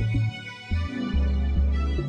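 Ambient techno: sustained synth pads over a deep bassline, the low notes dropping out briefly about half a second in and coming back.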